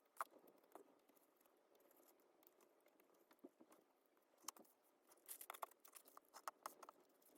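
Faint scattered clicks and light rattles of small hard parts being handled, with a busy cluster of them about five to seven seconds in.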